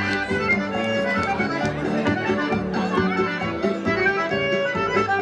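Accordion-led traditional festa junina music for a quadrilha dance, playing steadily with a light regular beat.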